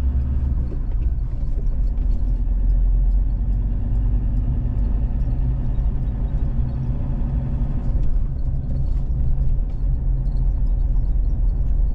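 Vehicle driving along a road: a steady low engine and road rumble, with the engine note shifting slightly about eight seconds in.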